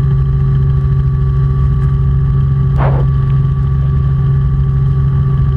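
Robinson R44 Clipper II helicopter in forward flight: the steady drone of its engine and rotors. A brief burst of noise cuts in about halfway through.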